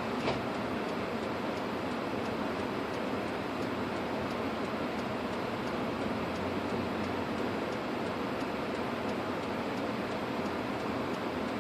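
Steady road and engine noise inside the cabin of a Lexus IS250 AWD driving through the snow, with one short click about a third of a second in.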